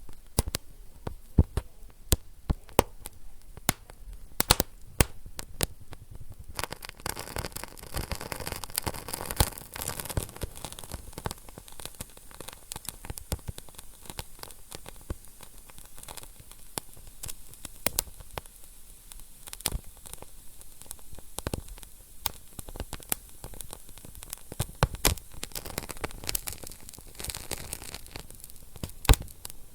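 Wood fire crackling in a fireplace: irregular sharp pops and snaps over a soft, steady hiss of burning. The hiss swells for a few seconds about a quarter of the way in and again near the end.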